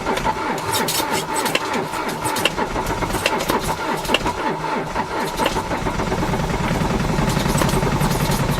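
A car engine being cranked on the starter in extreme cold, turning over with a repeating stroke. About six seconds in it catches and settles into a steady, rough-sounding run.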